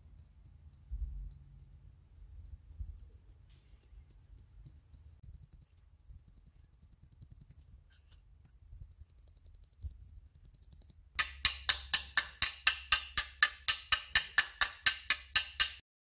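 A rapid run of sharp, evenly spaced knocks, about five a second, starting abruptly about eleven seconds in and cutting off suddenly near the end. Before it there is only a faint low hum with a few light ticks.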